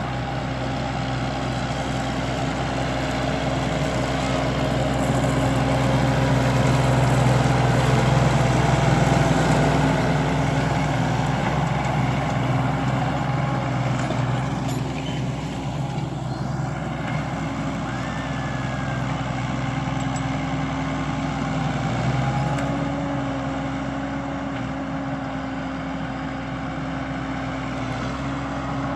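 Deutz-Fahr 150.6 tractor's six-cylinder diesel engine running steadily under load while pulling a plough, swelling a little partway through and then settling back.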